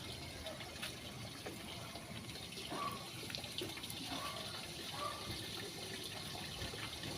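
Water running steadily, as from a tap or hose during washing, with a few small clicks and knocks.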